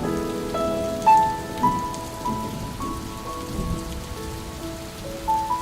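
Steady rain under gentle instrumental music, a slow melody of single held notes following one another.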